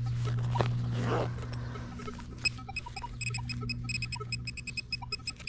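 Metal detector sounding over a hole: from about two and a half seconds in, a run of rapid, choppy short high beeps signalling more metal still in the ground, over a steady low hum. Two brief scrapes about half a second and a second in.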